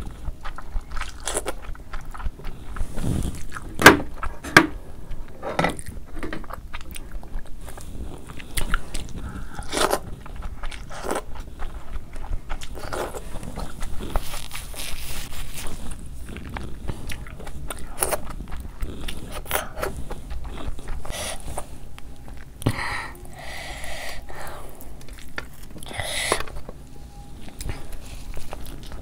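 Close-miked eating: a person biting and chewing a mouthful of food, heard as a run of irregular wet mouth clicks.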